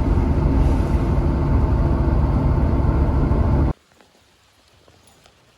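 Vehicle engine and road noise, a loud steady rumble with a low hum, cut off abruptly after nearly four seconds.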